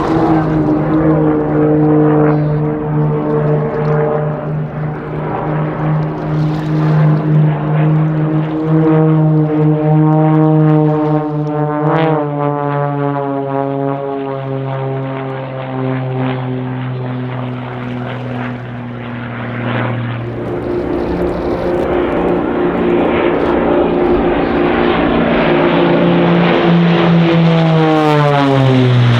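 Propeller aircraft of an aerobatic formation team flying overhead, several engines droning together at slightly different pitches. Their pitch shifts about halfway through and drops near the end as the planes pass.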